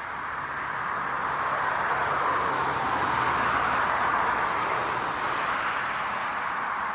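Jet airliner's engines passing: a steady rushing roar that swells to its loudest midway and then slowly eases off.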